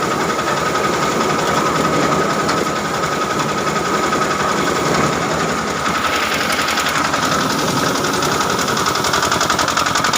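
Carrot washing machine running with a steady, fast mechanical rattle and a constant high whine.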